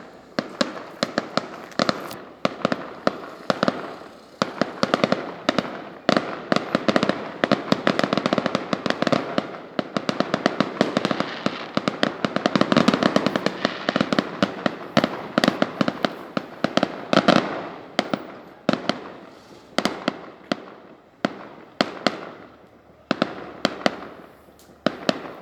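Aerial fireworks display: a rapid, continuous barrage of bangs and crackling reports, densest midway through and thinning out near the end.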